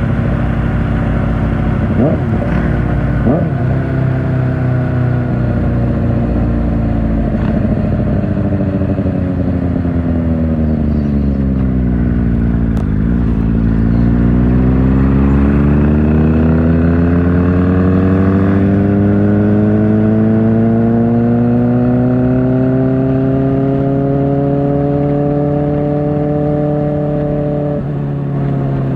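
Kawasaki Ninja ZX-4R's inline-four through an Akrapovic exhaust, its revs falling steadily for about thirteen seconds with two short blips early on. The revs then climb steadily under acceleration, with a brief drop near the end like a gear change.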